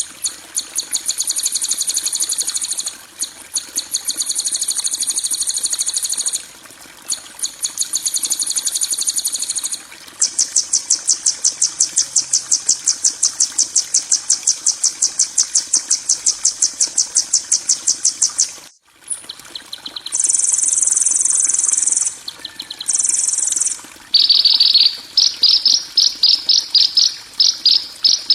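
Songbird training (masteran) recording of harsh 'kasaran' calls: high, buzzing trills made of rapid, even pulses, in segments that cut in and out abruptly. After a brief gap past the middle, short bursts follow, then from near the end a lower, spikier pulsed rattle.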